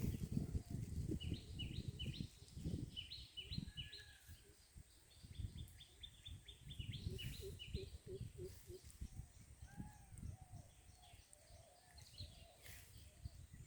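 Birds calling in repeated runs of short chirps, with a few softer, lower arched calls, over an uneven low rumble that is strongest in the first few seconds.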